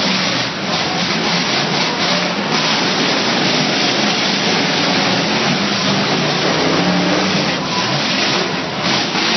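Derby trucks' engines running and revving loudly under a dense wash of noise, with a few faint knocks.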